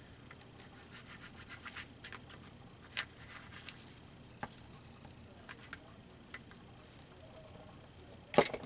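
Paper cut-outs being handled and rubbed on a collage page: a run of quick scratchy strokes, a sharp tap about three seconds in, scattered light ticks, and a louder knock near the end.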